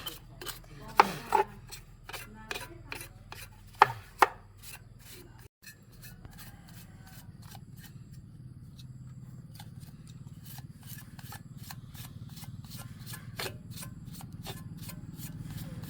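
A run of sharp clicks and knocks, the loudest a few seconds in. After a brief cut about five and a half seconds in, a low steady hum slowly grows louder under continuing faint clicks.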